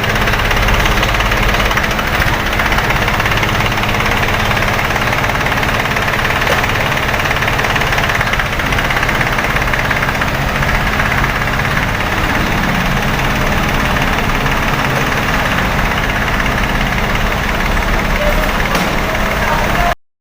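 Rebuilt three-cylinder engine idling steadily; the sound cuts off abruptly near the end.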